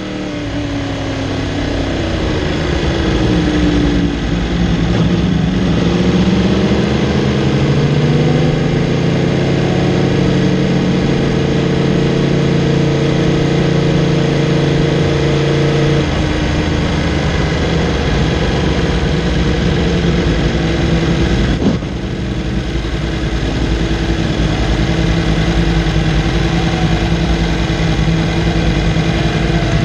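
Yamaha R1 crossplane inline-four engine running at low revs as the bike rolls slowly in second gear, its note falling as it slows. The pitch settles to a steady low-rev note after a brief click about two-thirds of the way through.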